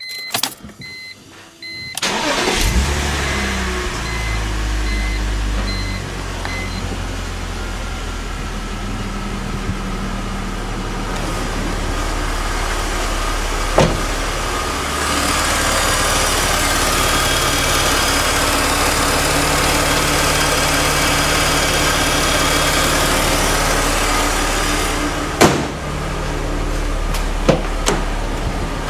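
BMW E46 3 Series engine starting cold about two seconds in, then idling steadily. A repeating beep sounds over the first few seconds.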